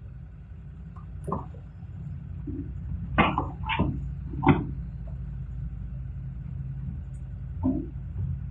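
Hitachi excavator's diesel engine running steadily, with several sharp clanks, a cluster of three from about three to four and a half seconds in and another near the end.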